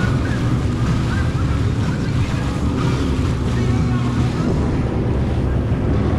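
Jet ski engine running steadily under way, with water rushing past and wind buffeting the microphone.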